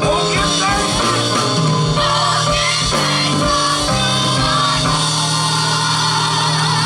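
Live gospel band playing, with drums and a steady bass line. About five seconds in, the drumming stops and the band holds a chord.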